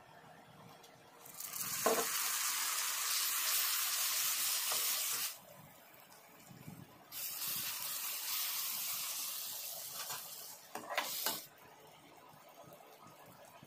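Food sizzling in hot oil in a pan, in two stretches of a few seconds each that start and stop abruptly, with a few sharp clinks of a utensil against the pan.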